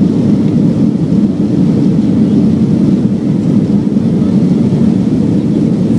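Loud, steady rumble of an Airbus A340-300's four CFM56 turbofans at takeoff power, heard from inside the passenger cabin.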